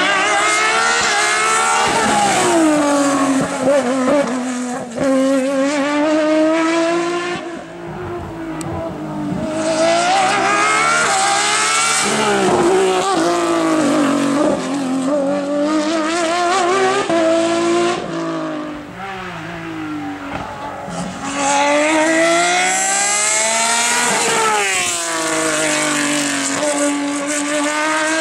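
Competition car engines revving hard at full throttle, the note climbing through each gear and dropping sharply on lifts and downshifts, again and again.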